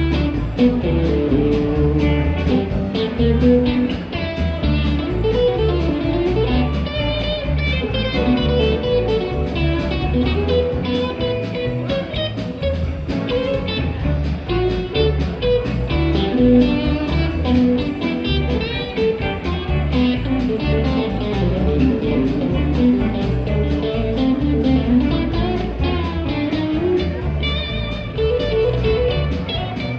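A band playing an instrumental passage: a picked guitar lead over a bass line with a steady beat.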